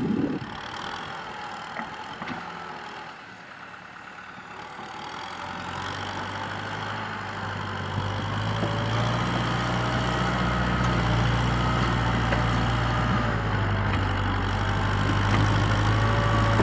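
Kubota M6040SU tractor's diesel engine running, faint at first, growing louder from about five seconds in, then holding steady.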